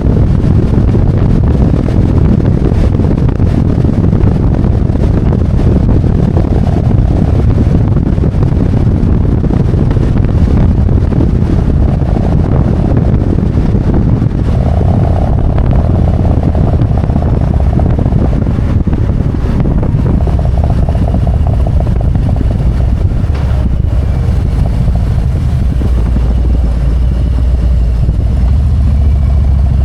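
Harley-Davidson Road Glide's V-twin engine running as the motorcycle rides along, with wind rushing over the microphone. The engine note steadies into a deeper, even drone near the end.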